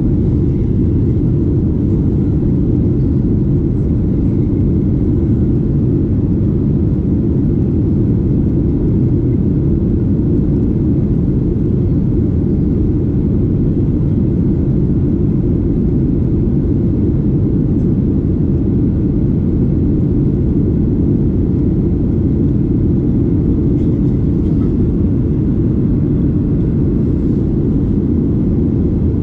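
Steady cabin noise of a Boeing 737-8 in flight, heard from a seat near its CFM LEAP-1B engines: a constant low rumble of engine and airflow with no change in pitch or level.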